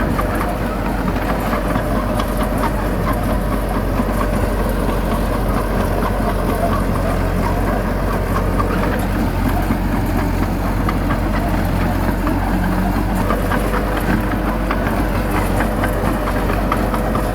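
Heavy diesel engine of earth-moving machinery running steadily at an even, unchanging pace.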